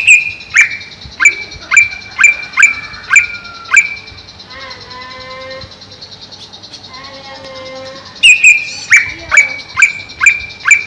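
Greater green leafbird (cucak ijo) calling: a run of loud, sharp, repeated notes about two a second, then a softer warbling passage in the middle, then the sharp repeated notes again near the end.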